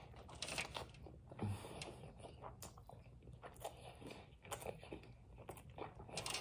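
Faint close-up sounds of a person biting into a burger and chewing it with the mouth working, irregular small wet clicks and crunches.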